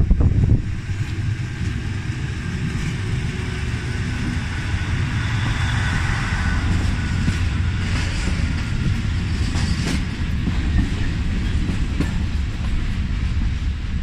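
A train running past on the rails with a steady heavy rumble. There is a loud burst at the very start and a faint high steady tone from about five to eight seconds in.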